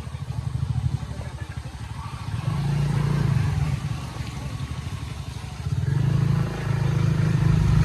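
A motor vehicle engine running at low revs with a fast even pulse, pulling harder and getting louder twice, about a third of the way in and again near the end.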